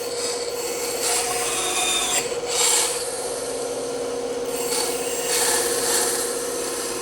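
Bandsaw running with a steady hum while its blade cuts through wood, the rasping cut swelling and easing several times as the piece is fed and turned.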